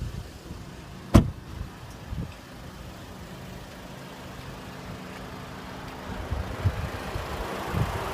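2015 Audi A3's 1.8-litre TFSI turbocharged four-cylinder engine idling steadily, with one sharp click about a second in. The engine noise grows louder near the end.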